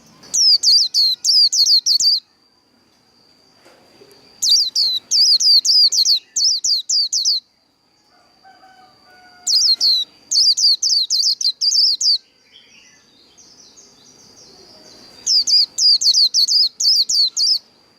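White-eye (vành khuyên) singing its fast 'líu' song: four bouts of rapid, high, down-slurred notes, each lasting two to three seconds with short pauses between, over a faint steady high tone.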